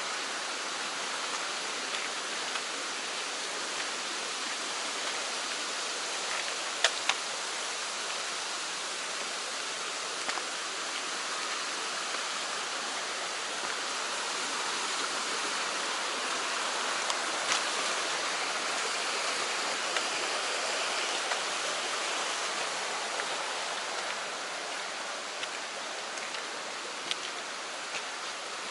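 Mountain stream rushing steadily, swollen after rain, with a few sharp clicks or taps, the loudest about seven seconds in and again about halfway through.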